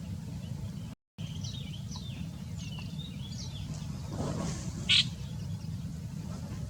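Small birds chirping in a run of quick, short high calls, with one louder sharp call about five seconds in, over a steady low rumble. The sound cuts out briefly about a second in.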